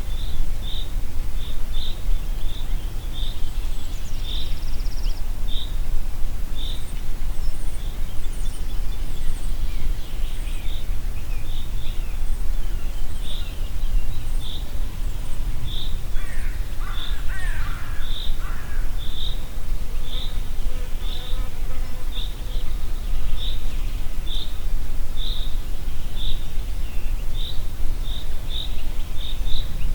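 Wind rumbling steadily over the microphone in a forest, with a bird repeating a short high chirp about once or twice a second throughout. Other birds call briefly, one with a harsher, lower call about halfway through.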